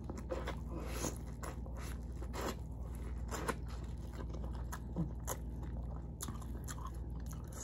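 Biting into and chewing boiled corn on the cob, heard up close: crunches and mouth clicks at irregular intervals.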